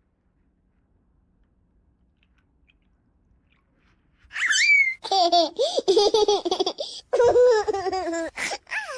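High-pitched, childlike laughter in several quick peals, starting about four seconds in after near silence, with a short rising-then-falling squeal at its start.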